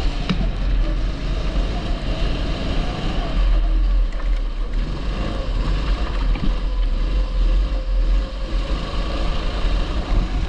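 A 270 cc kart engine running on track, its pitch wavering up and down with the throttle, over a constant low rumble.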